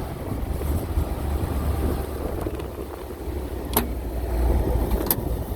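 Grain truck engine idling with a steady low rumble, with two sharp clicks a little over a second apart near the end.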